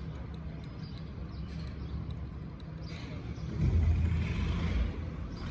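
Diesel engine running steadily, picking up and getting louder about three and a half seconds in.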